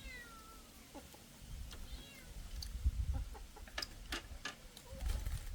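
Domestic animal calls: a falling, meow-like call at the start and a short call about two seconds in. A run of light clicks comes near the four-second mark, over low rumbling.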